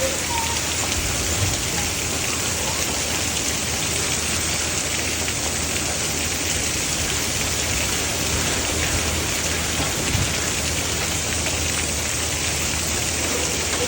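Steady, even rain falling in a thunderstorm.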